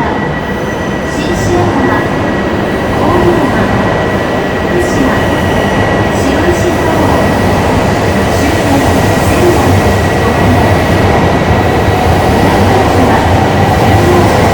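Shinkansen train running into an underground station platform: a dense, steady rumble and rush of wheels and motors that grows gradually louder, with a thin, steady high whine over it.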